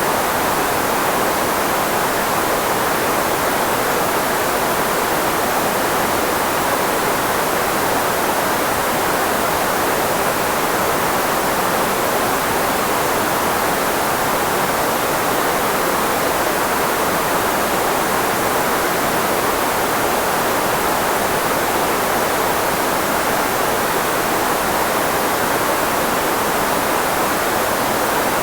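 Synthetic filtered white noise used as a speech blocker: a steady, even hiss centred on the middle frequencies of the human voice, with nothing else in it.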